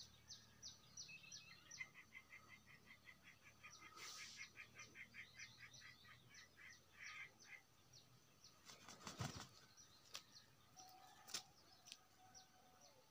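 Faint chirps of small wild birds, short falling notes repeated two or three times a second, with a fast, even trill for several seconds in the first half. About nine seconds in, a brief rustle or bump is the loudest sound.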